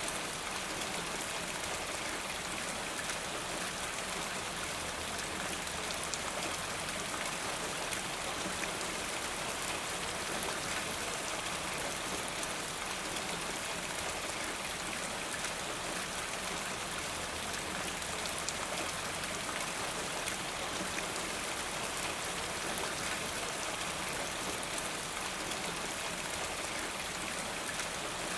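Steady rainfall, an even hiss of many drops falling on a surface, with faint individual drop ticks.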